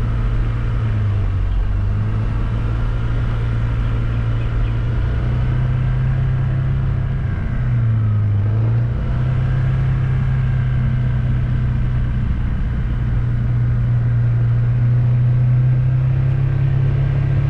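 A vehicle's engine running steadily as it drives along, its pitch dipping briefly about a second in and again around eight seconds in, then rising a little near the end.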